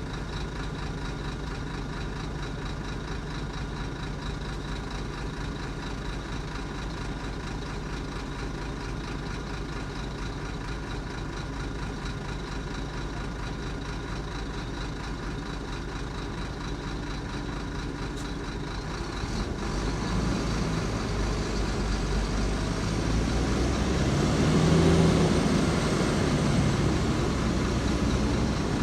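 Heavy diesel engine running steadily at low revs, then revving up and working harder about two-thirds of the way in, loudest a few seconds later before easing off a little.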